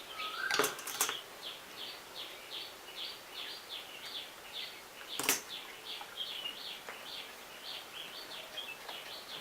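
A bird calling in a steady run of short, high, falling chirps, about three a second. Three sharp taps stand out, about half a second in, a second in and about five seconds in.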